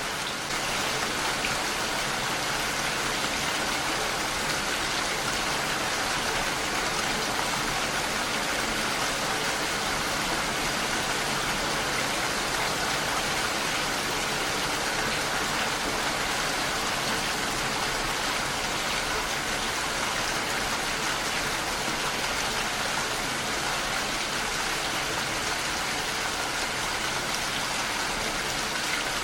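Heavy rain falling steadily against a window, an even hiss with no let-up.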